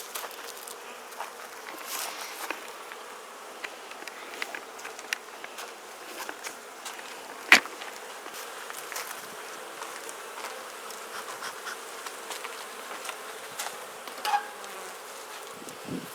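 Honeybees from an opened Langstroth hive buzzing in a steady hum, with scattered clicks and knocks. A single sharp knock about halfway through is the loudest sound, and there is another smaller knock near the end.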